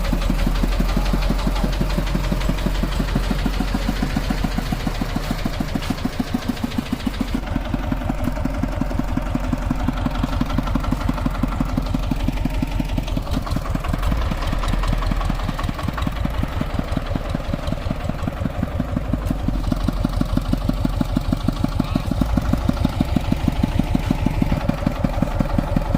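Two-wheel hand tractor's single-cylinder diesel engine running steadily, with a fast, even chugging.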